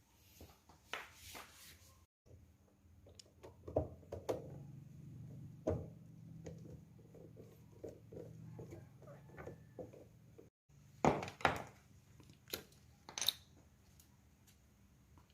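Irregular light clicks and knocks of small parts being handled, with a cluster of sharper knocks near the end, over a faint low hum in the middle stretch.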